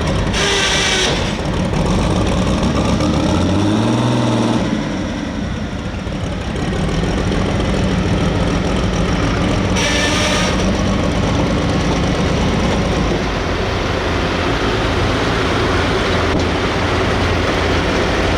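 Super stock pulling tractor's turbocharged diesel engine running between pulls, revving up and back down once a few seconds in. Two short hisses come about a second in and about ten seconds in.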